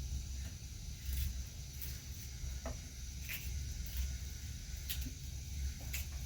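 Wind rumbling on the microphone over a steady hiss, with a few short scraping or crunching sounds at uneven intervals.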